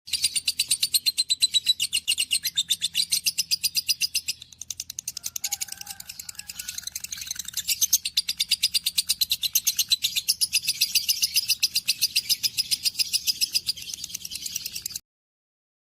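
A baby bird chirping: a fast, unbroken run of high, thin chirps, several a second, that softens briefly about four seconds in and cuts off suddenly near the end.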